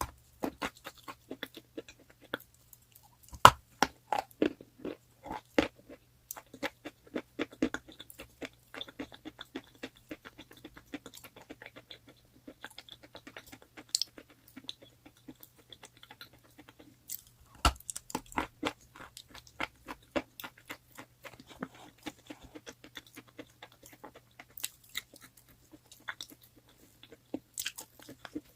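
Close-up crunching and chewing of hard, crunchy chalk, made of many fine irregular cracks and crackles. Two louder bites snap off fresh pieces, one a few seconds in and one a little past the middle.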